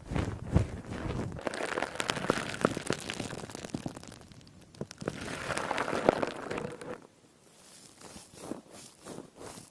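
A liquid-soaked sponge being squeezed by hand, giving a fizzy, crackling squish. There are two louder squeezes, then fainter crackles after about seven seconds.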